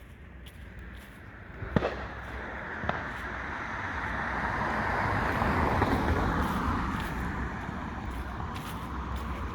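A car passing on the road, its tyre and engine noise swelling and then slowly fading. Near the start two sharp firework cracks go off about a second apart, the first the loudest thing heard.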